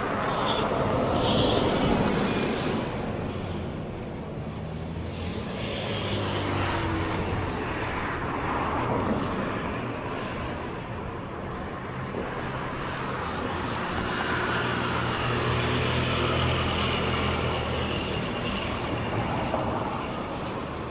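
Road traffic: motor vehicles passing by, their engine and tyre noise swelling and fading, loudest about two seconds in and again in the second half.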